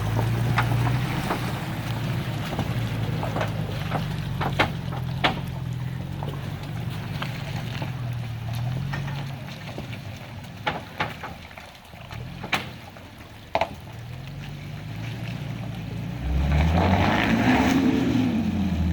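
2021 Toyota Tacoma pickup's engine running at low speed while crawling over an obstacle, with scattered sharp knocks and clicks. About three-quarters of the way through the engine revs up and falls back, louder, as it climbs.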